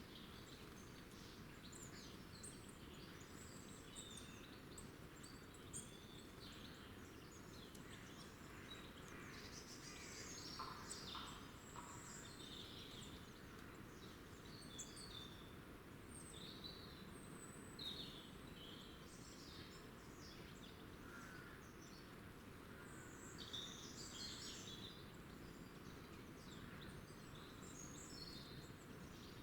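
Wild birds chirping with many short, overlapping calls throughout, over a steady low background hiss.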